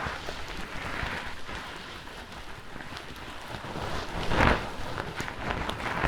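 Fingers rubbing and stroking a fluffy fur microphone windscreen, a continuous soft rustling noise with a louder swipe about four and a half seconds in.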